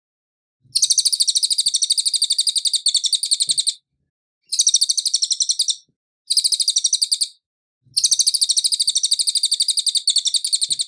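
Cililin bird calling in four fast trilled bouts of high, sharp chirps, about a dozen notes a second. The bouts last roughly three seconds, a second and a half, one second and three seconds, with short silent breaks between them.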